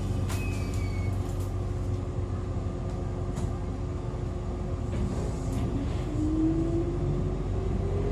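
Electric railcar sitting with its equipment humming steadily, with a few sharp clicks. About six seconds in it starts off, and a whine from the MT54 traction motors and gearing rises steadily in pitch.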